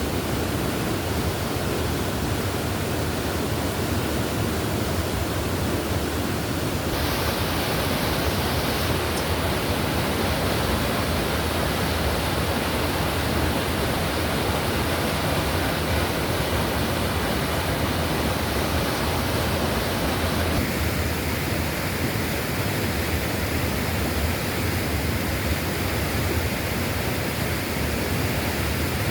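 Steady rush of a rain-swollen forest stream, an even hiss and roar of water. Its tone changes abruptly twice, about seven seconds in and again about twenty seconds in.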